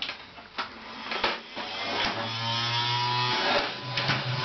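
Vacuum cleaner's motor switching on about two seconds in after a few light knocks, its whine rising as it spins up, then running with a steady buzzing hum.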